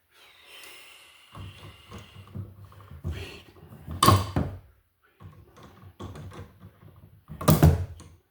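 Work noise at a wall outlet box: a faint high whir in the first two seconds, then scraping and handling clatter with two loud thunks, about four and seven and a half seconds in.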